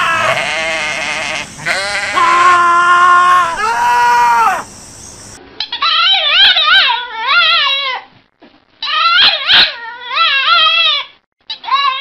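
Sheep bleating in three long calls, followed by a French bulldog howling in long bouts whose pitch wavers up and down: two full bouts, and a third starting near the end.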